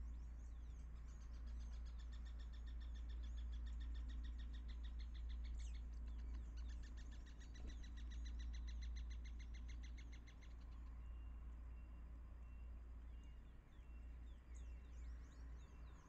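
A bird singing a long, fast trill of evenly repeated high notes that breaks briefly about a third of the way in and stops about two-thirds through, followed by a few faint short notes and some quick falling chirps near the end. A steady low hum runs underneath.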